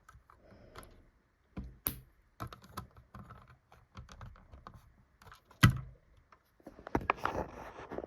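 Plastic Lego plates being handled and pressed onto studs: a series of irregular sharp clicks, the loudest one a little over halfway through, with a denser patch of clicking and rattling near the end.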